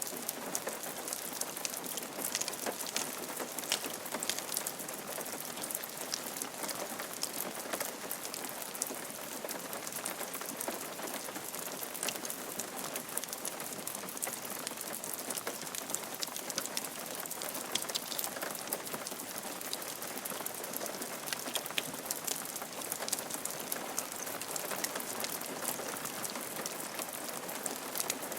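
Steady rain falling on a roof: an even hiss with many small drop ticks, strongest in the upper range.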